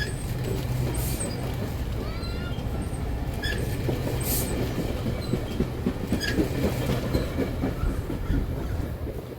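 Train rolling along the rails, with the wheels knocking over rail joints in a quickening clickety-clack from about five seconds in, and a few short high wheel squeals.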